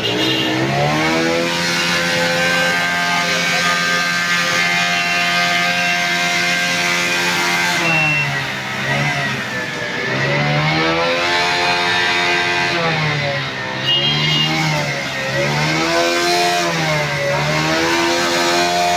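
Motorcycle engine revving, held at a steady high speed for several seconds, then repeatedly dropping and climbing back as the throttle is eased off and opened again.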